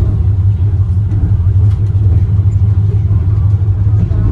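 Steady low rumble of a Wuppertal Schwebebahn suspension railway car in motion.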